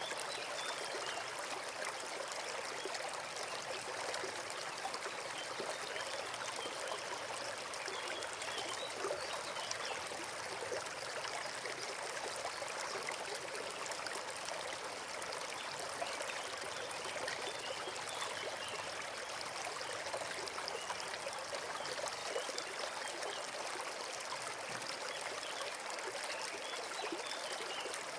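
Small forest stream flowing steadily, a continuous rush and trickle of running water.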